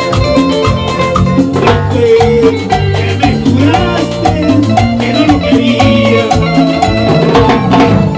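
Live band playing Latin dance music, with a steady bass line and rhythmic percussion.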